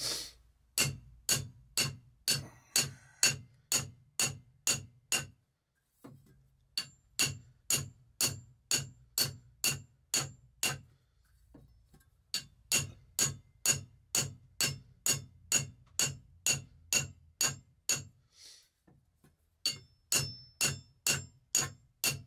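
A diamond tile saw blade being 'pinged': its rim is struck again and again with a metal file, about two sharp metallic pings a second, each ringing briefly. The pinging knocks the dulled diamond rim back into cutting shape. There are short pauses about six seconds in and again near the end.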